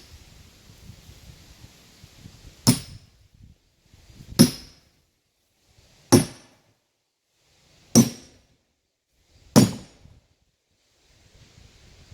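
Five heavy hammer blows on a metal wedge driven into a log to split it open, each a sharp metallic clink with a brief ring, spaced about every two seconds.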